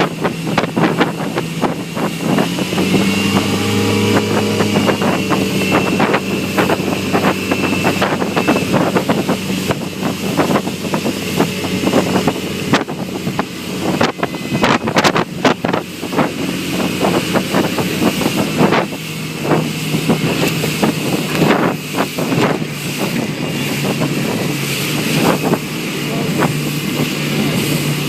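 Motorboat engine running steadily, its pitch rising briefly about three seconds in and then settling back. Wind buffets the microphone, and many sharp knocks and slaps are scattered through it.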